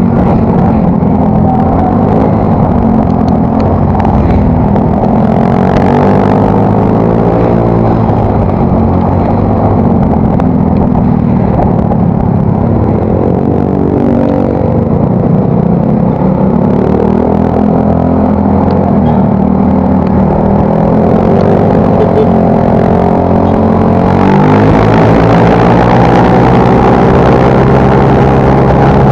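Yamaha Mio Soul GT scooter's single-cylinder engine running through a newly fitted exhaust while riding, revs rising and falling again and again as it speeds up and eases off.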